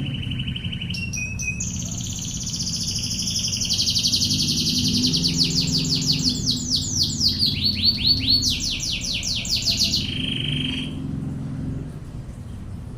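Domestic canary singing: high whistled notes that run into a long, fast rattle of repeated sweeping notes, the machine-gun-like 'ngebren' burst, ending about eleven seconds in. A low steady hum sits underneath.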